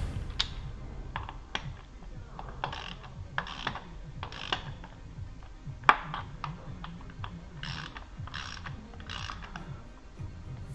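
Hand socket ratchet wrench clicking in a series of short bursts of strokes, with a single sharp metallic click about six seconds in.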